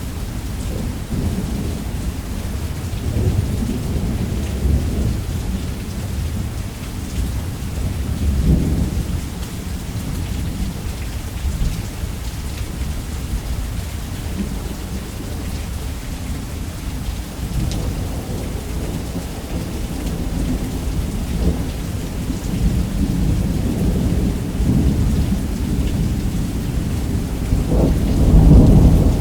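Thunderstorm: steady heavy rain on a roof under continuous low thunder rumble, with the thunder swelling about a third of the way in and again, loudest, near the end.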